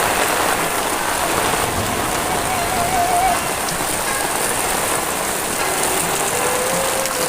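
Heavy rain falling steadily in a dense, even hiss. A brief wavering tone rises above it about a third of the way in, and a steady tone starts near the end.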